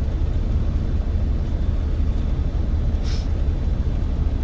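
Steady low rumble of a truck travelling on the road, with a brief hiss about three seconds in.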